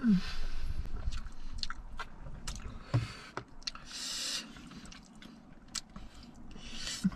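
Close chewing and wet mouth sounds of people eating saucy chicken wings, with scattered small clicks and rustles as fingers pick at the wings in a polystyrene takeaway box. A brief low grunt right at the start.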